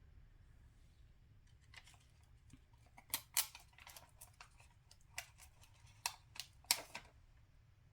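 Small, sharp clicks and crackles of handling: adhesive Velcro dots being peeled off their backing and pressed onto wooden truck pieces, in scattered single snaps over a few seconds.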